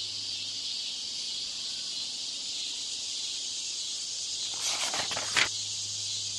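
Steady high-pitched hiss like insects chirring, over a low steady hum: background noise laid under a listening-test recording to imitate a poor exam-room broadcast. A few sharp crackles come about five seconds in.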